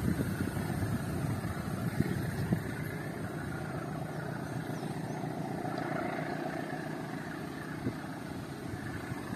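Passenger train running away along the track, its steady wheel-on-rail rumble slowly fading as it recedes.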